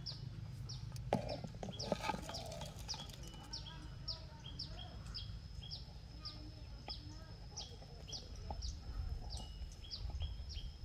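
A bird calling over and over: short, high notes sliding downward, about two a second, each followed by a fainter lower note, over a thin steady high tone. A few sharp clicks sound about one and two seconds in.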